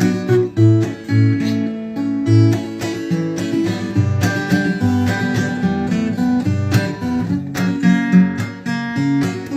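Acoustic guitar strummed in chords, the closing instrumental of the song with no singing.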